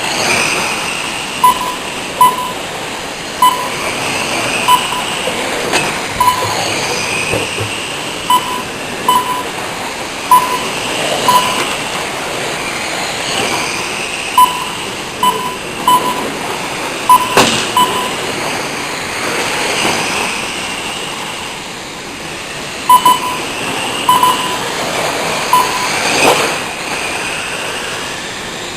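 Radio-controlled sport trucks racing, their electric motors whining up and down in pitch as they accelerate and brake around the track. Short beeps from the lap-timing system sound at irregular intervals as trucks cross the line, with a sharp knock about seventeen seconds in.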